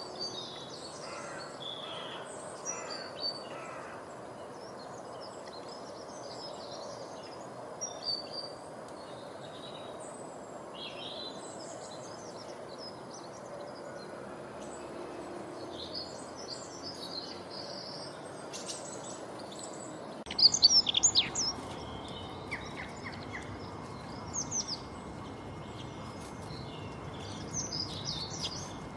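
Songbirds chirping and calling: many short, high chirps over a steady background hiss. About twenty seconds in the background changes and a burst of louder, sharper chirps follows.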